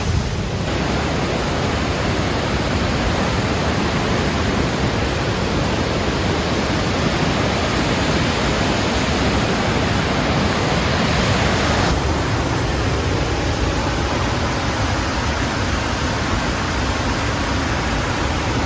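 Steady rush of falling water from a cascade waterfall, a dense, even noise, its tone shifting slightly about twelve seconds in.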